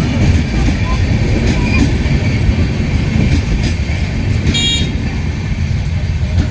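A passing train's steady low rumble of wheels on track, with a short, high horn toot about four and a half seconds in.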